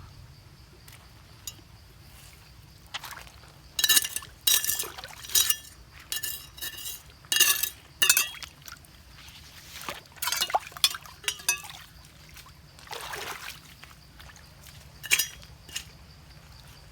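Irregular splashing and pouring of water mixed with sharp clinks of hard objects, such as stones or crystals knocking together, in a busy run through the middle of the stretch.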